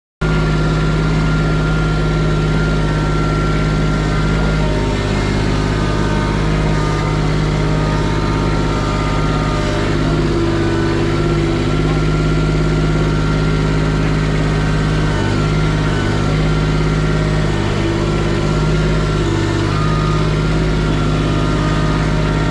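Engine idling steadily, a constant low hum at an even level.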